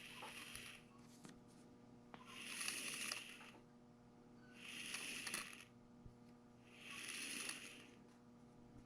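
Faint steady hum from the Monarch 10EE lathe, with a soft hissing scrape that swells and fades about every two and a half seconds, three times.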